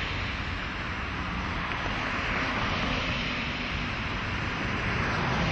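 Steady rushing noise of a vehicle in motion: a broad hiss over a low rumble, growing slightly louder near the end.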